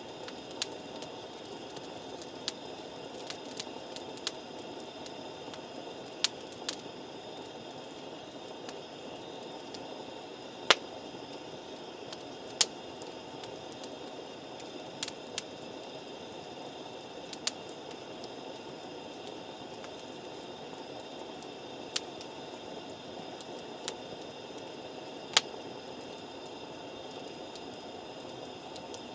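Wood campfire burning with a steady soft hiss and sharp, irregular pops and crackles, about a dozen across the stretch.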